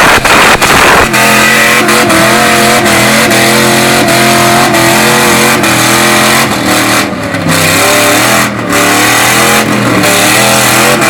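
Range Rover V8 engine held at high revs near its rev limit, its pitch steady with small wobbles and two brief dips in the second half. It opens with about a second of loud, rough noise before the steady engine note settles.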